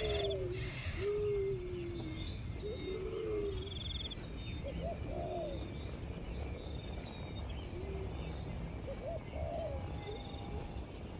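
Bird calls: short, low hooting notes, some sliding down in pitch, repeated every couple of seconds. Faint high trills sound behind them over a low background rumble.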